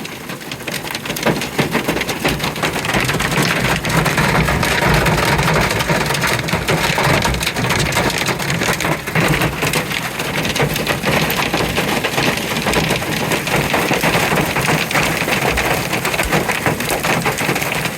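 Hailstones and heavy rain pelting down in a hailstorm: a dense, steady clatter of countless small impacts.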